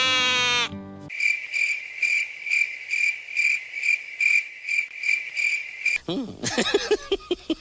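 Cricket chirping in an even, high-pitched pulse a little over twice a second, starting and stopping abruptly over a silent background, like an edited-in sound effect. A held voice note fades out just before it, and quick sliding, clicking sounds follow near the end.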